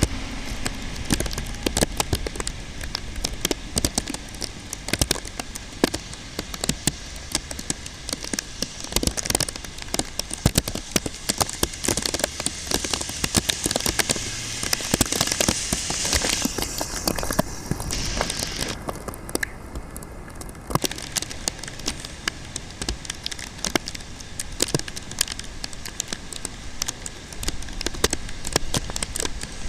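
Heavy typhoon rain: a dense, continuous patter of drops striking a surface close to the microphone over a steady rush of rainfall.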